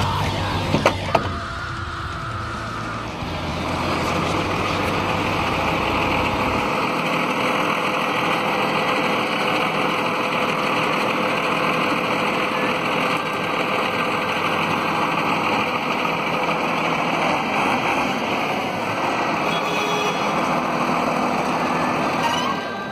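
Heavy machinery engine running steadily. A deep low rumble drops away about seven seconds in, leaving a steady higher-pitched running noise.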